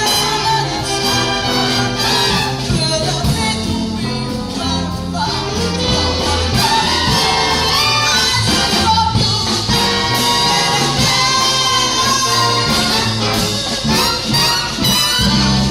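A big band playing jazz live, with a brass section including trumpets over a bass line.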